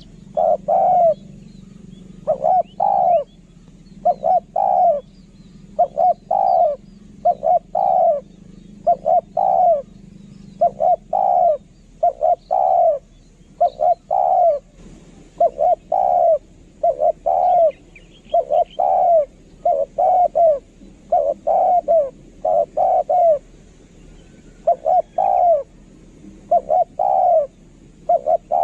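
Spotted dove cooing over and over: short coos in clusters of two or three, roughly one cluster every second or two, without a break.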